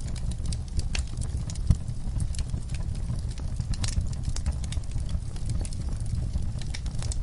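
Wood fire burning in a fireplace: logs crackling with frequent, irregular sharp pops over a low rumble of the flames, with one louder pop a little under two seconds in.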